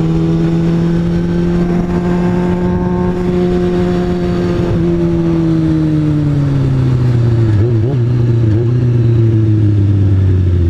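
Motorcycle engine, the rider's 2003 Kawasaki ZX-6R 636, running at steady revs, then dropping gradually in pitch from about halfway as the throttle is rolled off.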